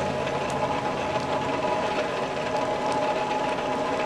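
Coal forge's air blower running steadily with an even hum, with a few faint crackles from the burning coke in the fire.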